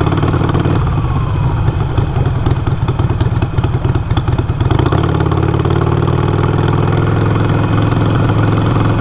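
Harley-Davidson Iron 883's air-cooled V-twin engine running on the road; about halfway through it settles into a steady pull with its pitch slowly rising as the bike gathers speed.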